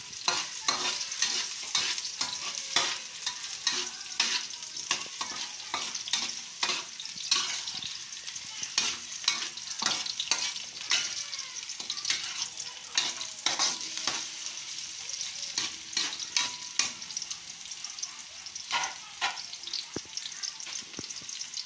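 Sliced onion sizzling in hot oil in a stainless steel wok. A spatula stirs it, scraping and clacking against the metal many times.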